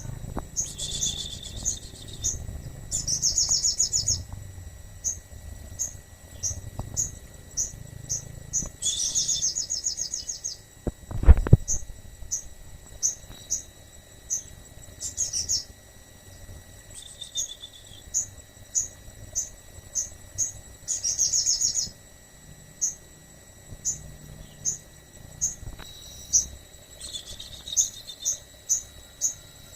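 Sogon singing hard: a steady run of short high chirps about two a second, broken every few seconds by a rapid trilling phrase about a second long. One loud thump about eleven seconds in.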